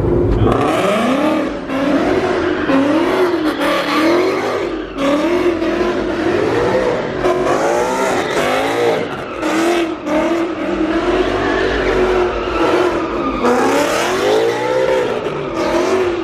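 Car engine revving hard, its pitch rising and falling over and over, with tyre noise underneath, as the car does a burnout.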